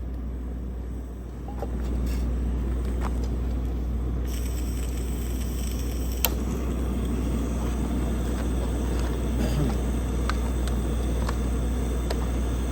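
Propane camp stove burner running with a steady rumbling hiss that gets louder about two seconds in, with a few light clicks over it.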